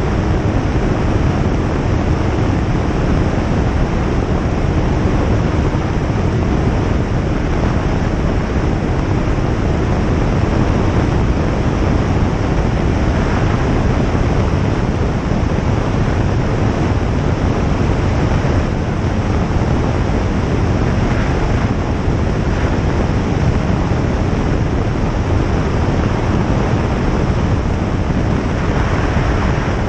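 Single-engine light aircraft in flight: engine and propeller running steadily under a constant rush of airflow noise.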